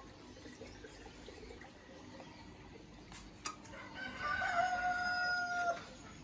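A sharp click, then one long bird call at a steady pitch lasting under two seconds in the second half.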